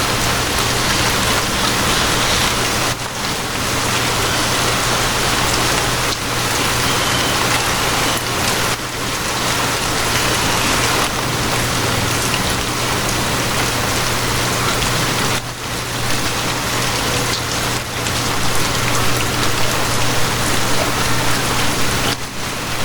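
Steady rain falling, a dense even hiss, with a low steady hum underneath and a few brief lulls.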